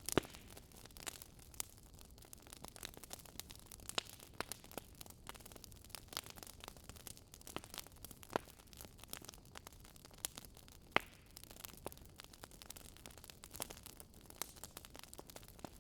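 Wood fire crackling: irregular sharp pops and snaps, a few louder than the rest, over a low steady hiss.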